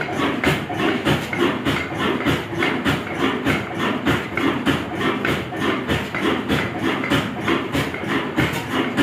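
Vintage Ruston Hornsby diesel engine running steadily, its exhaust beating in an even, rapid rhythm.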